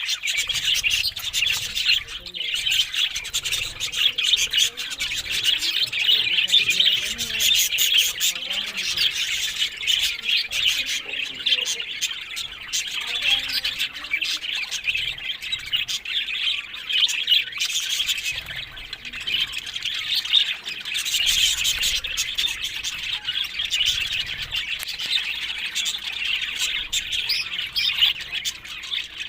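Budgerigars chattering and warbling without a break: a dense stream of quick, high chirps and squawky notes from several birds at once.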